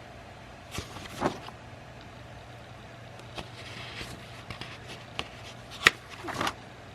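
Pages of an old sketchbook being handled and turned: a few short paper rustles and clicks over a low steady hum, with one sharp click near the end the loudest.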